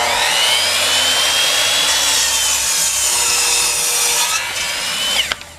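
Electric power saw cutting through two wooden boards at once in one long cut. The motor's whine sags under load, then rises sharply as the blade comes free, and the saw stops about five seconds in.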